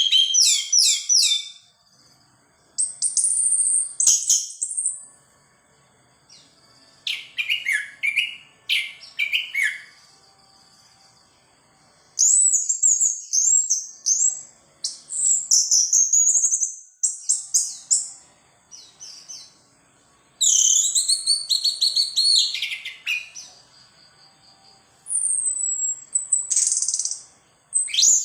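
Orange-headed thrush singing in bursts of quick, high chirped and whistled phrases, separated by pauses of a second or two. It is delivering its learned repertoire of mimicked phrases.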